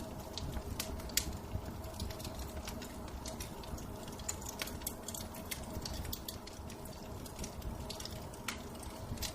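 Wood fire in a fireplace crackling, with irregular sharp pops and snaps over a low rumble.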